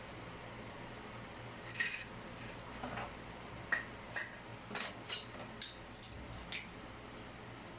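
Light metallic clinks and taps, about a dozen in quick, uneven succession for some five seconds, as small metal plumbing parts are handled, over a steady low hum.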